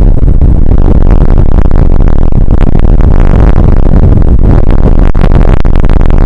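Rain and wind hitting an outdoor weather camera's microphone, overloading it into a steady, heavily distorted noise full of small crackling hits.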